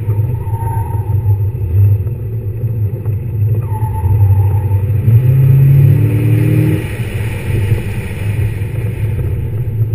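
A car's engine pulling through an autocross course, heard from a camera on the outside of the hood. The revs climb and hold for about two seconds around the middle, the loudest part. Two short squeals come in, one near the start and one about four seconds in.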